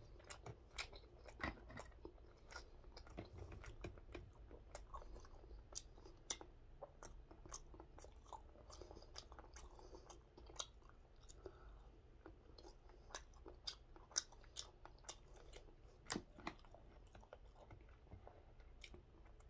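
Faint close-up chewing of gwamegi (semi-dried saury), with wet mouth sounds and many short sharp clicks of metal chopsticks on the plastic tray.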